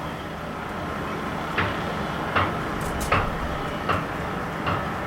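Evenly spaced knocks on a building site, about one every three-quarters of a second, starting about one and a half seconds in, over a steady engine hum.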